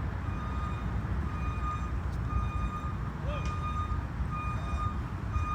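A vehicle's reversing alarm beeping, a short steady tone about once a second, over a steady low rumble of city traffic.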